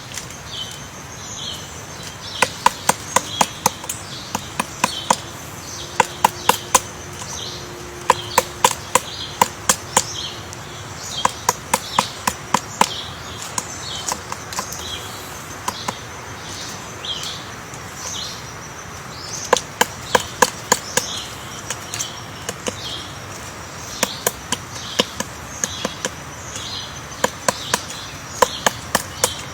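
Short, high bird chirps repeating about twice a second throughout, with runs of sharp taps or knocks, about five a second, coming in groups every few seconds.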